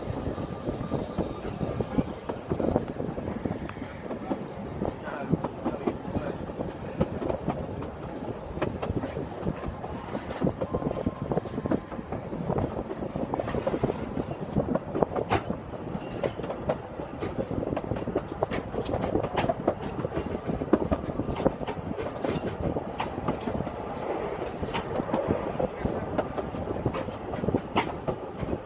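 Narrow-gauge steam train carriages running along the Welsh Highland Railway, heard close by from an open carriage window: a steady rumble with dense, irregular clicking and rattling of wheels over the track.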